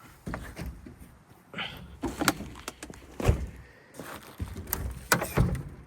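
Irregular clunks, knocks and rattles of things being moved about while rummaging in a truck for a tube of RTV sealant, with the loudest knocks near the middle and end.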